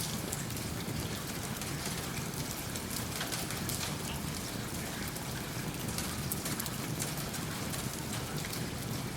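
Steady rain mixed with a crackling wood fire in a fireplace: an even hiss with scattered sharp pops and clicks throughout.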